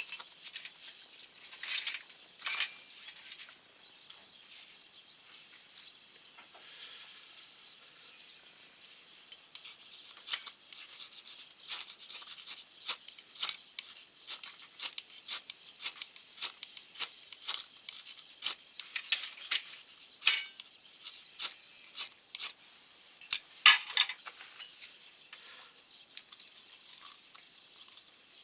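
Irregular small clicks, clinks and scrapes of hands working at a stainless steel wood-burning camp stove. They come thicker from about a third of the way in, with the loudest cluster near the end.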